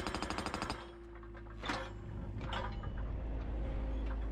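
Post driver attachment on a Yanmar excavator hammering a fence post with rapid blows, about ten a second, stopping about a second in. The excavator's diesel engine then runs steadily, with two short sharp sounds from the machine.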